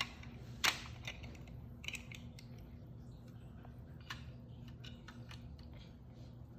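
Plastic Lego bricks being handled and pressed together: scattered sharp clicks, the loudest under a second in, with light ticking and rattling between.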